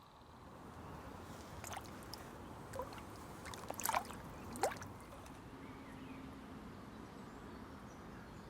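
Waterside ambience: a low steady wash of water and open air, with a few short sharp sounds in the middle, the loudest about four seconds in.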